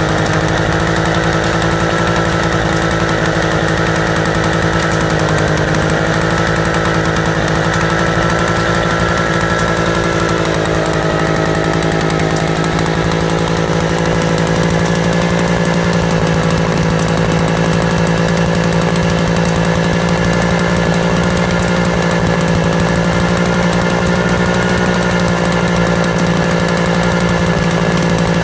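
Auto Union/DKW single-cylinder two-stroke stationary engine running steadily, its pitch wavering slightly a couple of times.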